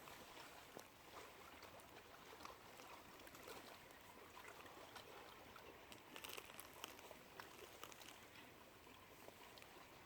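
Faint lapping and trickling water at a lake edge, with many small scattered clicks and splashes.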